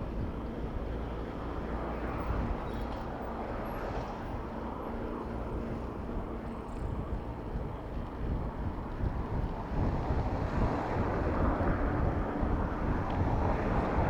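Street traffic and wind rushing over the microphone during a bicycle ride, a steady noisy rumble that grows louder in the last few seconds.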